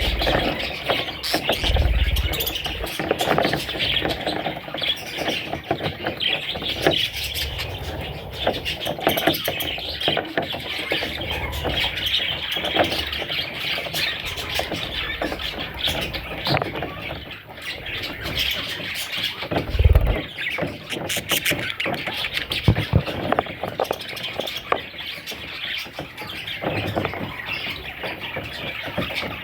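Budgerigar chicks chirping continuously in a dense chatter, with a few dull thumps, the strongest about twenty seconds in.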